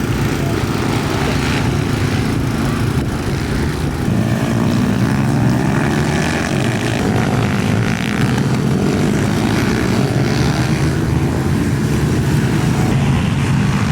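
Pit bike engines running hard on a race track, a loud, steady drone whose pitch sweeps up and down a few seconds in as the revs change.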